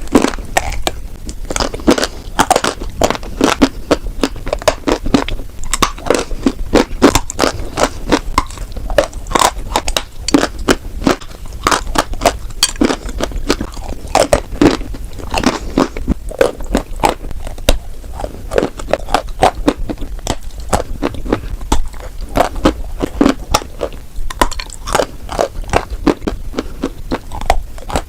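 Close-up crunching of white chalk being bitten and chewed, a dense run of sharp, irregular crackles.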